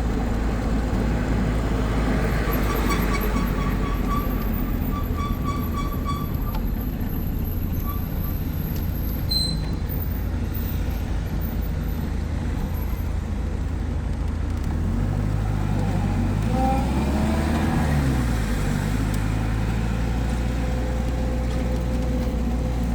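An old car's engine and road noise heard from inside the cabin while driving. The engine note rises and falls about two-thirds of the way through as the car changes speed.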